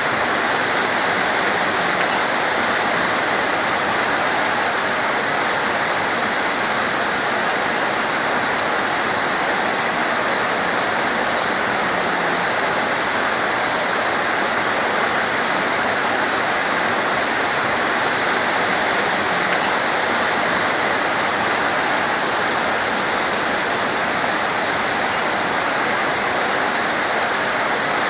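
Heavy torrential rain pouring down in a dense, steady hiss, with one brief sharp tick about eight seconds in.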